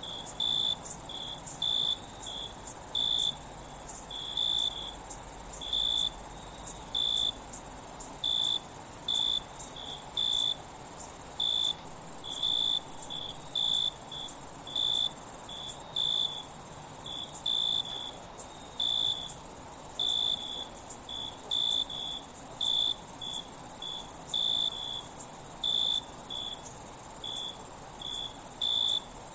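Night insect chorus: a steady high-pitched shrill drone with cricket chirps repeating one to two times a second over it, broken by a few momentary dropouts.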